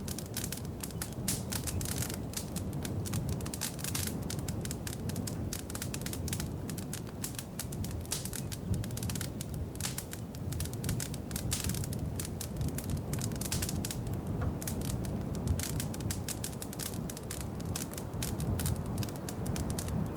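Wood fire crackling in a fireplace: dense, irregular pops and snaps over a steady low rumble of the flames.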